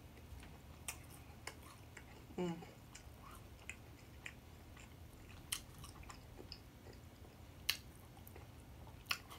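Close-miked chewing with soft, scattered mouth clicks, and a brief hummed "mm" about two and a half seconds in.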